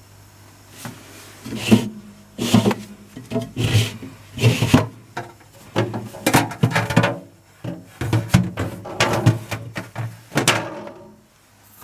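Handling of a Sharp SJ-17W-W refrigerator's door, shelves and drawers: a long run of irregular clattering knocks and rattles over a steady low hum. It goes quiet near the end.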